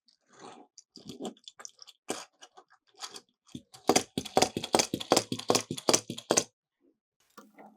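Miniature toy cars clattering down a plastic track: scattered clicks and rattles at first, then a loud, rapid run of clicks, about eight a second, lasting a couple of seconds before it stops.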